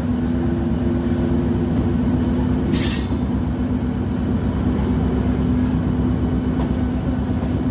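Passenger train running along the track, heard from a coach window: a steady rumble of wheels on rails with a steady hum, and one short hiss about three seconds in.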